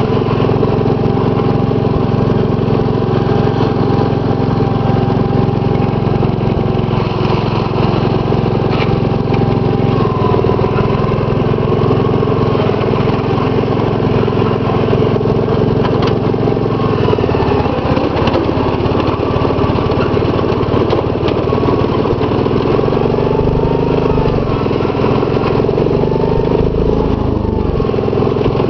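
Gravely 810 garden tractor's 10 hp Kohler cast iron single-cylinder engine running steadily under load as the tractor drives in high range. The engine note shifts lower about two-thirds of the way through, and its pitch bends up and down briefly near the end.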